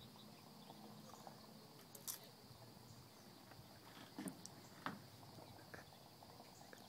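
Near silence, with a few faint mouth clicks and smacks of someone chewing, about two, four and five seconds in.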